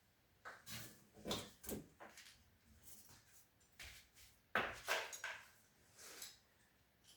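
Irregular knocks and clatters, a dozen or so separate hits spread over several seconds, the loudest just past the middle.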